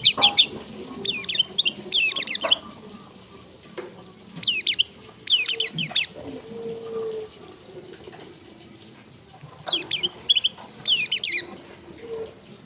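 Long-tailed shrike (cendet) singing: short bursts of rapid, high, sweeping notes, about eight phrases with pauses of a few seconds between them.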